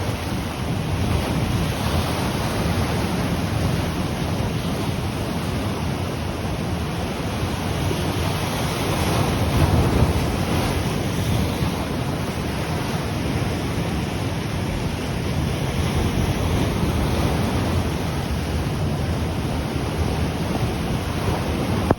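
Ocean surf washing onto the shore in a steady rush, swelling louder about ten seconds in, with wind rumbling on the microphone.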